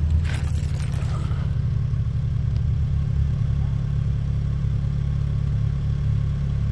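2004 Chevy Malibu's 2.2-litre four-cylinder engine idling steadily, heard at the tailpipe. A brief scuffing noise sounds in about the first second.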